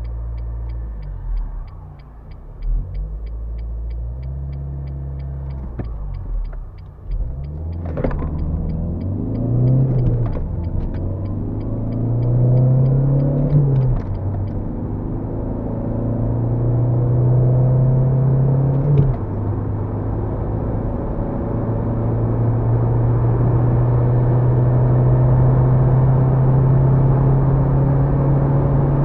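Renault Mégane II 1.5 dCi four-cylinder turbodiesel engine under full acceleration with road rumble. Its note rises and drops at gear changes several times in the first half, then holds in a long steady pull in a high gear, creeping up near the end.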